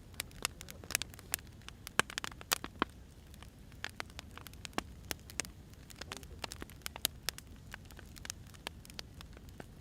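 Wood fire crackling: irregular sharp pops and snaps from burning firewood, several a second, over a steady low rumble, the loudest pops in the first three seconds.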